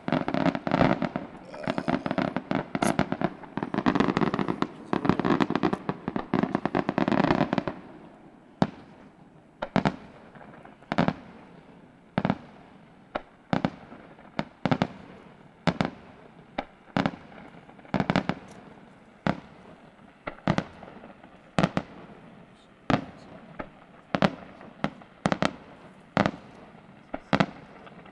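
Fireworks display: a dense, nearly continuous barrage of bursts and crackling for the first seven or eight seconds, then a steady string of separate sharp bangs, about one or two a second, each trailing off.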